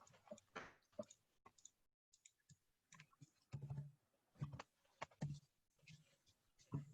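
Faint, irregular clicking of a computer mouse and keyboard, scattered clicks and taps at uneven spacing.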